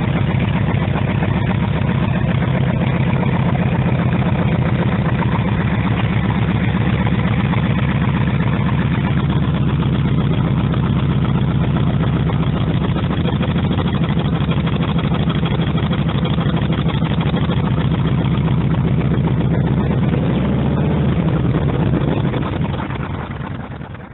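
1948 Harley-Davidson EL Panhead's 61 cubic inch overhead-valve V-twin running steadily just after a cold start, its carburetor and timing freshly set, and sounding healthy. The sound fades out near the end.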